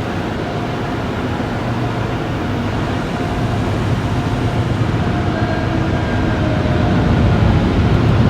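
Steady rushing and low rumble of an automatic drive-through car wash heard from inside the car, slowly growing louder.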